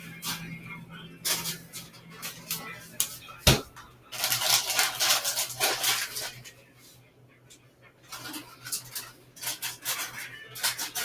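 Kitchen handling clatter: scattered clicks and knocks with one sharp knock about three and a half seconds in, a couple of seconds of dense noise just after, and more clicks near the end, over a low steady hum.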